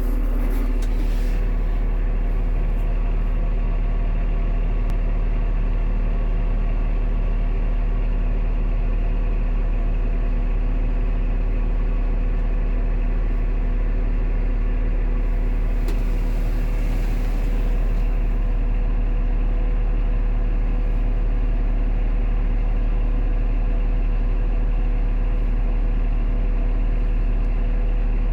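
A heavy engine idling steadily with a low, even hum, and a brief hiss about fifteen seconds in.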